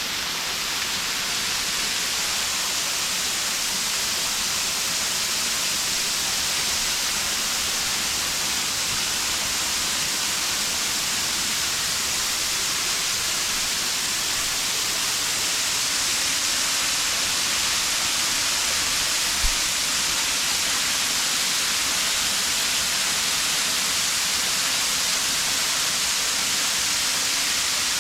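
Creek water cascading down rocks towards a waterfall: a steady rushing hiss that grows slightly louder.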